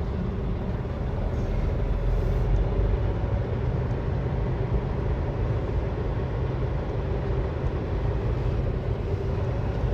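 Semi truck's diesel engine running steadily at low speed while the tractor-trailer is maneuvered in a tight turn.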